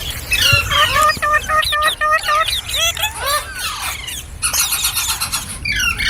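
Ringneck parrot calling: quick runs of short, shrill chirping notes, a few longer swooping squeals about three seconds in, then more rapid chirps near the end.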